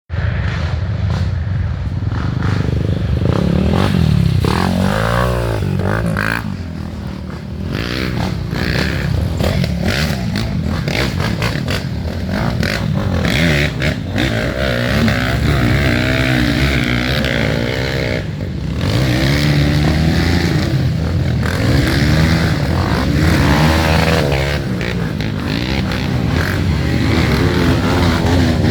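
Several off-road trail motorcycles revving, their engine pitch repeatedly rising and falling as they overlap.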